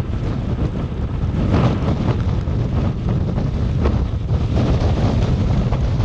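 Strong gusty storm wind buffeting the microphone: a loud, low, rumbling roar that surges with the gusts, about a second and a half in and again about four and a half seconds in.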